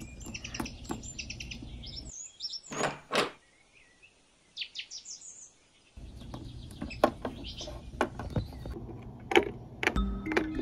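Small birds chirping in quick runs of short high notes, with the sound dropping to near silence for a few seconds about two seconds in. Several light sharp clicks follow near the end.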